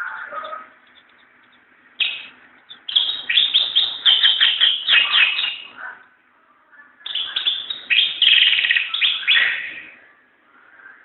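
A white-eye singing: a short call at the start, then two bouts of fast twittering song, each lasting a few seconds.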